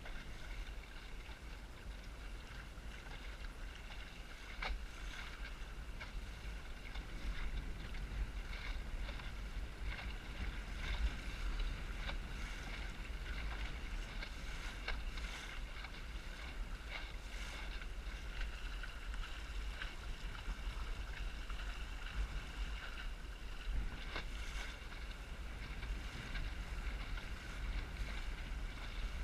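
Wind buffeting the microphone with a steady low rumble, over water rushing and splashing against the hull of a small Snark sailboat under way in strong wind. Many small slaps of water are scattered throughout.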